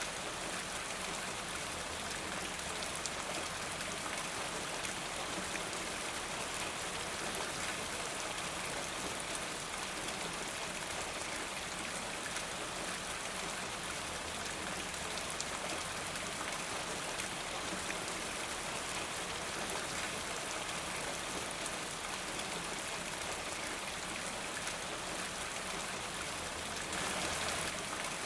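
Steady rain falling, an even hiss scattered with fine drop ticks; it swells briefly near the end.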